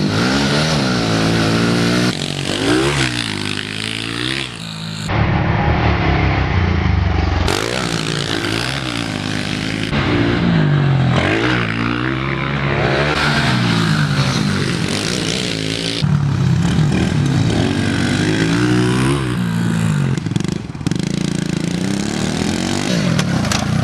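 Small four-stroke single-cylinder pit bikes ridden around a dirt track, engine pitch repeatedly climbing as they rev and dropping back as they shift or back off.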